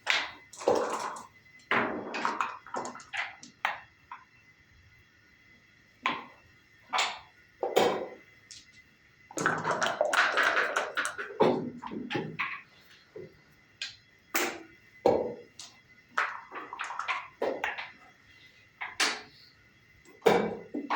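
Backgammon being played on a wooden board: dice thrown and bouncing, and checkers clacked down, in an irregular run of short sharp taps and rattles with pauses between moves.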